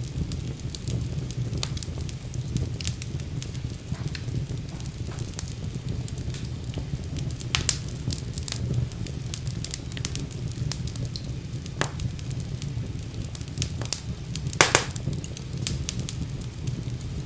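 Wood fire burning in a fireplace: a steady low rumble of the flames with scattered crackles and sharp pops, two louder pops about eight and fifteen seconds in.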